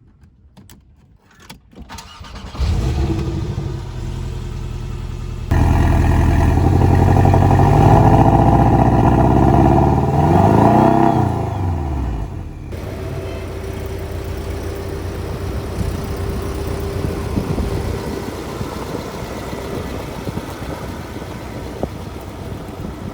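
Porsche 718 Boxster's mid-mounted turbocharged flat-four starting up about two and a half seconds in after a few faint clicks, then idling. It is revved, its pitch rising and falling, and later runs steadily as the car drives.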